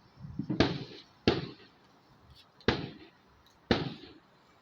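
Four sharp firework bangs in irregular succession, each dying away quickly, with a low rumble just before the first.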